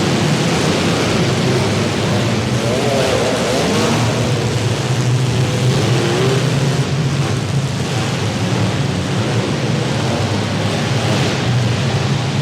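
Engines of several compact demolition derby cars running and revving together in a loud, steady din.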